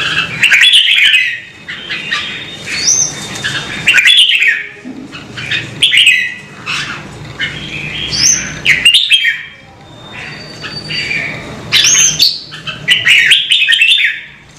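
Red-whiskered bulbul singing loudly: short upward-sweeping whistles and warbling phrases, repeated every second or two with short pauses between.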